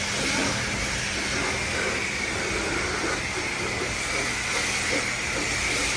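High-pressure spray wand at a coin-operated self-serve car wash, spraying in a steady hiss over a faint steady hum.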